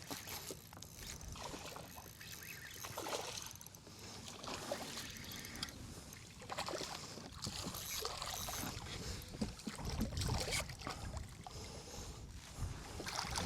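Water splashing and dribbling around a kayak, with small irregular knocks against the hull.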